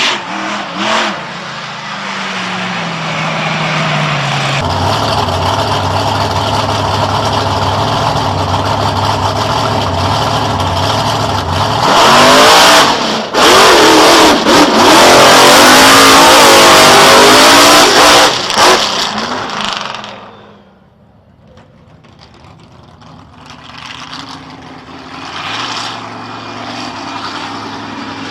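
Big monster truck engine running with a steady note, then revved hard and very loud for about seven seconds with the pitch swinging up and down, before the sound drops away sharply; a lower engine note idles again near the end.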